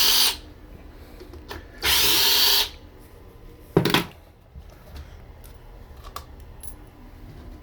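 Power drill-driver backing out the screws of a sump pit cover, running in two short bursts, the second about two seconds in, followed by a single sharp knock about four seconds in.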